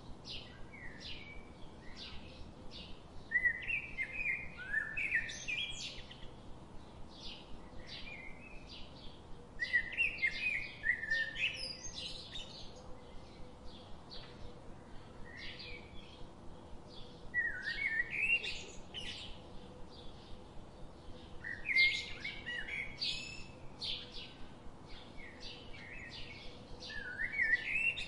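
Small birds chirping steadily, a couple of short chirps a second, with busier bursts of twittering song every several seconds.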